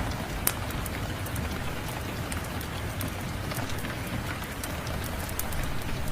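Steady rain falling, with scattered sharp crackles and pops from a wood fire, one louder pop about half a second in.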